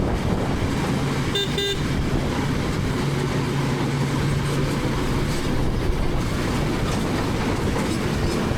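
KTM 250 Adventure's single-cylinder engine running under way with road noise, and a vehicle horn gives two short toots in quick succession about a second and a half in.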